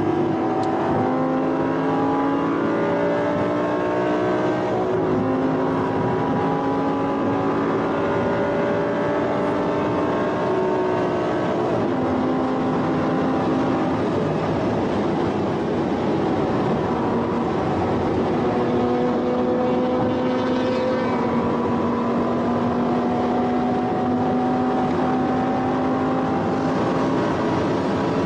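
Vehicle engine at high speed. Its pitch climbs slowly and drops back several times as it pulls through the gears, over a steady rush of wind and road noise.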